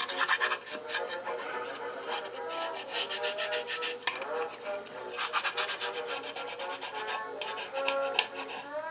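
Rapid back-and-forth scrubbing inside the wooden drawer of an old hand-crank coffee grinder, cleaning out old coffee grounds, in runs of quick strokes with a short pause about four seconds in. Faint background music with plucked notes underneath.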